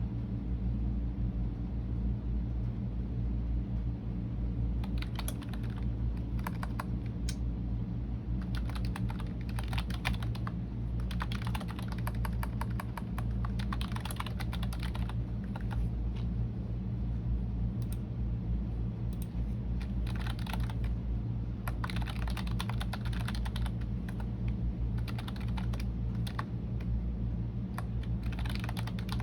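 Typing on a computer keyboard: runs of rapid keystroke clicks broken by short pauses, over a steady low hum.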